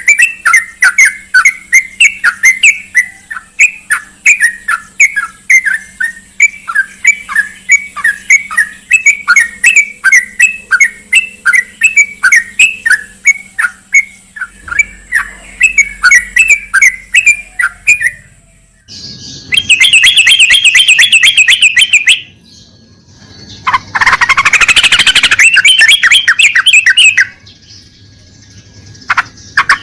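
Yellow-vented bulbul (trucukan) calling: a long run of quick repeated chirps, about three a second, then after a short pause two bursts of dense, loud chattering.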